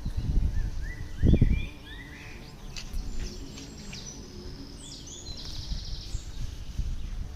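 Small songbirds chirping, with a series of short rising chirps followed by higher, quicker trills. Under them is a low rumbling noise, loudest in a brief burst just over a second in.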